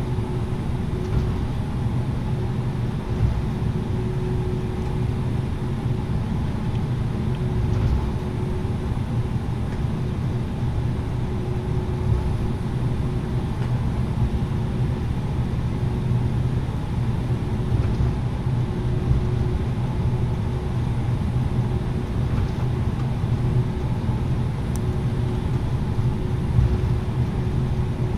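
Cabin of an Airbus A330-900neo taxiing: a steady low rumble from the Rolls-Royce Trent 7000 engines near idle and the wheels rolling over the taxiway, with a faint steady hum and a few light knocks.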